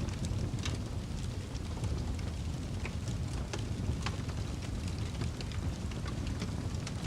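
A fire burning with a steady low rumble and frequent irregular sharp crackles and pops.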